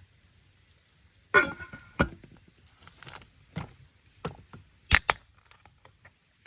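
Irregular knocks and clinks of hard objects being handled, about a dozen in all, the loudest about a second and a half in with a brief ring and a sharp double knock about five seconds in.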